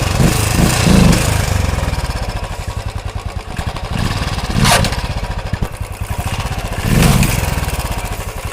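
Royal Enfield Classic 350's single-cylinder engine running, with four short throttle blips: right at the start, about a second in, just before the middle and near the end. A sharp clack comes with the blip just before the middle. The bike has the clutch plate noise that the mechanic sets out to cure.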